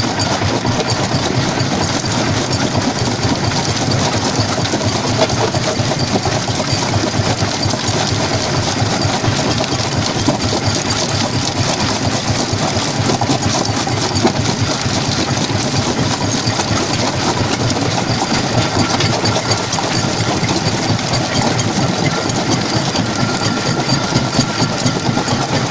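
Stone jaw crusher running: a steady, loud machine drone with a dense, continuous clatter of rock being crushed.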